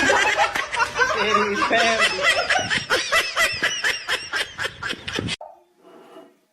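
People laughing hard in quick repeated bursts, which cut off suddenly about five seconds in; a brief faint sound follows.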